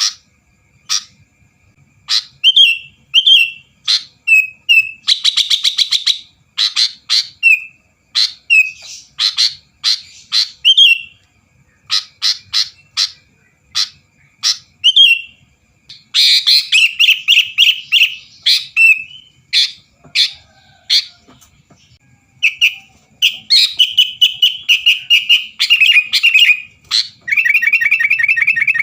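Sooty-headed bulbul singing hard: a run of short, sharp chirps about a second apart, broken by bursts of fast trilled chatter.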